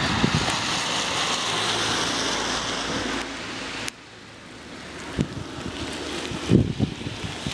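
Steady rushing hiss of wind and wet, slushy snow falling, with wind buffeting the microphone. It drops off abruptly about four seconds in, then builds again, with a few low thumps of wind on the microphone near the end.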